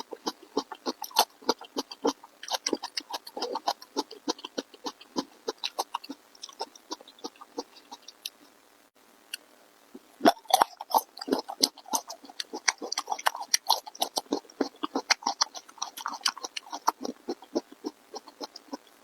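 Close-miked eating: rapid wet chewing and smacking mouth sounds with crisp clicks. They stop for about two seconds around eight seconds in, then resume more loudly.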